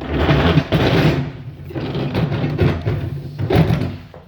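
A heavy sewing machine being shoved and dragged across the floor, scraping and rumbling in several pushes with short pauses, dying away near the end.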